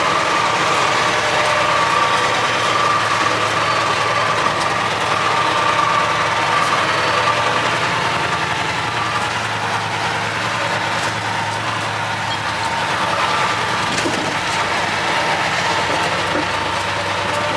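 Cummins 903 V8 diesel engine of a Ford LNT 9000 truck running steadily as the truck is driven, easing off slightly about halfway through.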